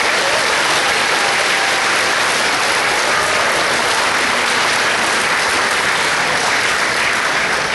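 An audience in a hall clapping steadily, with sustained applause for an award winner that fades out just as it ends.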